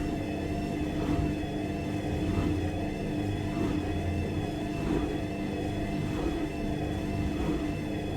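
Washing machine running: a steady motor hum with a faint, slightly wavering whine above it and a soft pulse about once a second.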